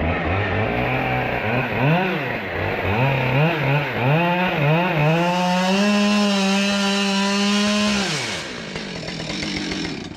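Chainsaw revving in quick up-and-down blips, then held at full throttle for about two seconds as if cutting wood, and winding down near the end.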